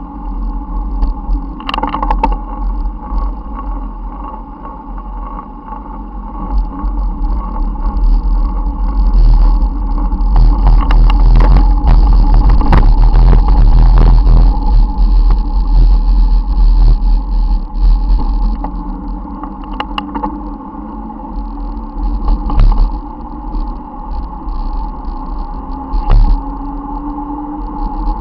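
Wind noise on the microphone of a camera carried on a moving bicycle, mixed with road and car traffic noise. Loudest through the middle stretch.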